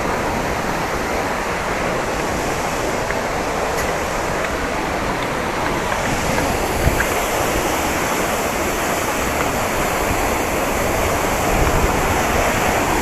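Steady rushing roar of falling water from Athirappilly Falls on the Chalakudy River, growing slightly louder in the second half.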